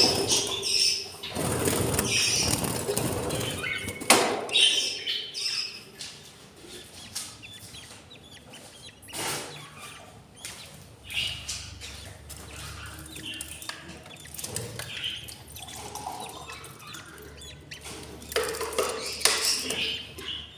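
Budgerigars chirping, with rustling and wing flutters, loudest in the first few seconds.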